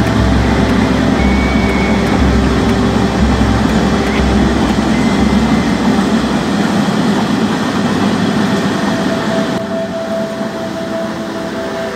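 Freight train rolling across a railway bridge, with a low rhythmic beat about once a second from its wheels that fades out about two-thirds of the way through. The rush of the river over the weir below runs underneath throughout.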